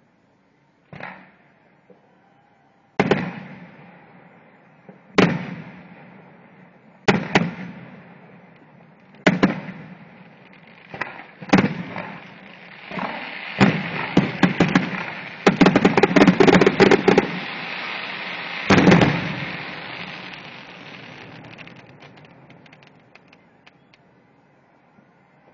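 Aerial firework shells bursting, each a loud bang with an echoing tail, about one every two seconds. They build to a rapid volley of bangs and crackling, then one last big bang, and the crackle fades away.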